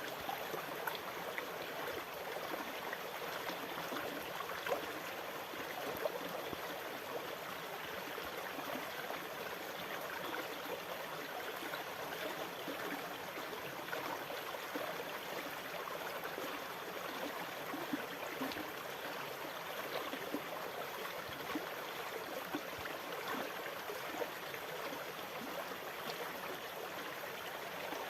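Steady trickling and gurgling of running water at an even level, with no rise and fall of breaking waves.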